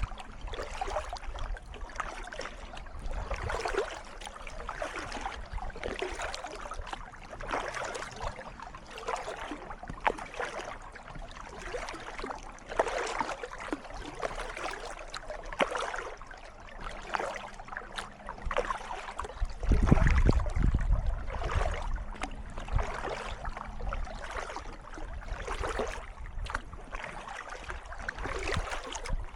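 Kayak paddle strokes splashing in calm water, one surge of splashing and dripping about every second and a half. About two-thirds of the way through a louder low rumble lasts a couple of seconds.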